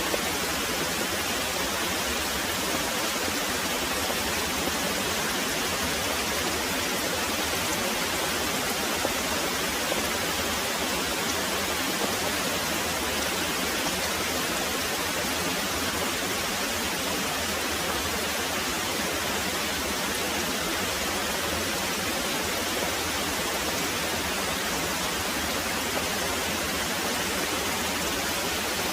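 Very heavy rain pouring steadily: an even, unbroken hiss with no thunder heard.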